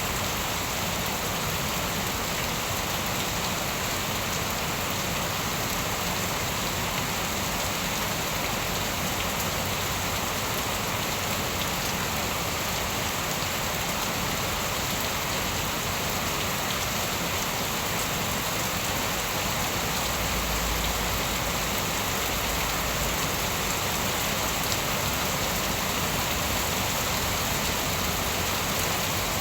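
Steady heavy rain falling and pattering on surfaces, an even hiss of drops, with a brief low rumble about twenty seconds in.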